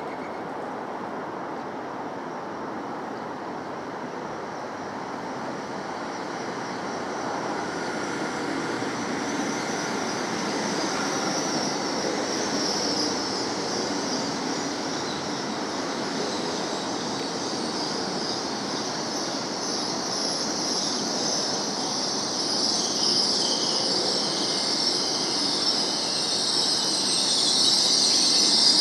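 Great Western Railway passenger train running along the tracks with a steady rumble and a high squeal from the train, both getting louder towards the end as it draws nearer.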